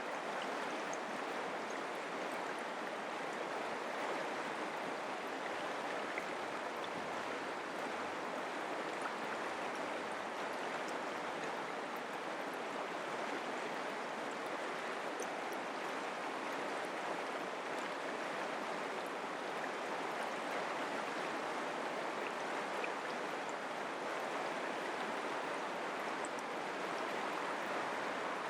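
Mountain creek water flowing steadily, an even rush of water with no breaks.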